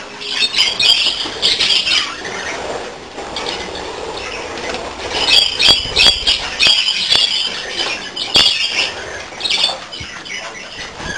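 A group of budgerigars calling in quick chirping and squawking bursts, busiest in the middle stretch, with a few sharp clicks among them.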